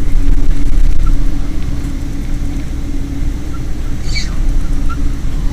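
Boeing 777 airliner noise: a steady low rumble with a constant hum, and a brief high chirp about four seconds in.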